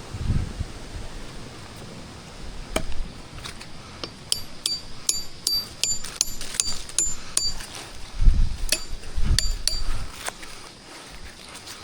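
A run of sharp metallic clinks, many ringing briefly at a high pitch, coming irregularly over several seconds, with wind gusting on the microphone near the start and again later.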